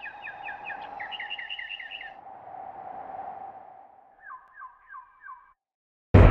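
A bird chirping in quick, evenly repeated notes, about five a second, in two runs: the second run comes after a short pause and is lower in pitch. A faint steady hum lies beneath the first few seconds. Right at the end a loud music hit cuts in suddenly.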